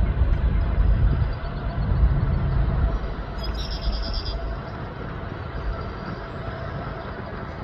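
Freight train of empty hopper cars rolling past with a steady low rumble of wheels on rail, heaviest in the first three seconds. A brief high-pitched squeal comes about three and a half seconds in.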